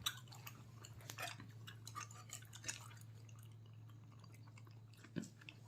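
Faint, scattered mouth clicks and smacks of someone chewing pork leg, a few sharp ticks spread through the stretch, over a steady low hum.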